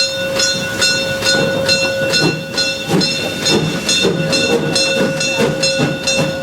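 Steam locomotive working under steam, its exhaust chuffing in an even beat of about three a second, with a steady tone held throughout.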